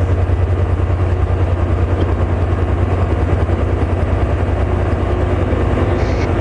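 A diesel train engine running close by: a steady, loud low rumble with a fast, even throb.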